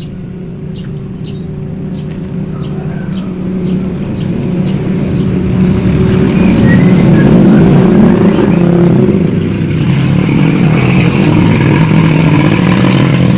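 An engine running, with a steady low hum that grows louder over the first several seconds and then holds. A few short bird chirps come near the start.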